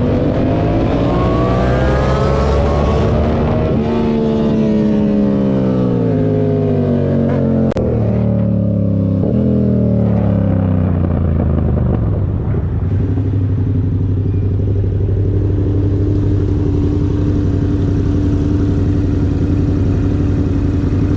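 Motorcycle engine rising in pitch as it accelerates, then falling in several steps as it slows, and running at a steady pitch through the second half. A single sharp click sounds near the middle.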